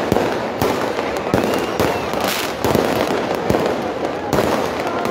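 Fireworks bursting overhead in irregular bangs, about two a second, over the continuous noise of a large crowd.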